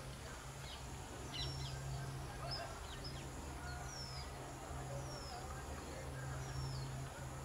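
Birds chirping: short high calls and several downward-sliding notes, roughly one a second, over a steady low hum.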